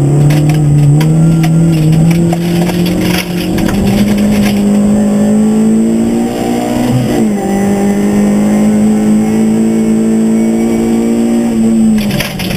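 Škoda Fabia rally car engine at high revs, heard from inside the cabin, its pitch climbing slowly and then held. The revs dip briefly and recover about seven seconds in, and drop off again near the end.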